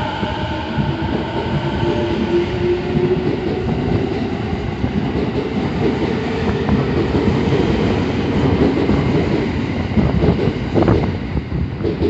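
Train running past the platform close by: a loud, steady rumble of wheels on rails with a faint whine over it.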